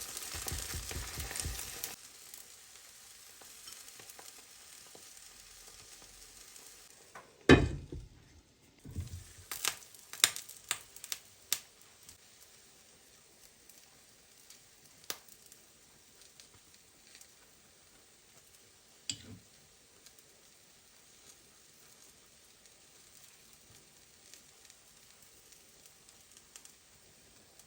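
Food sizzling as it fries in a pan, loud for the first two seconds and then dropping to a faint sizzle. About seven seconds in there is a loud knock, followed by a run of clicks and taps and a few scattered taps later.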